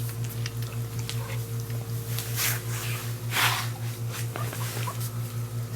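Portuguese Water Dog puppies eating soft food, with small wet mouth noises and two brief breathy snuffles a little past the middle. Under it runs a steady low hum that pulses several times a second.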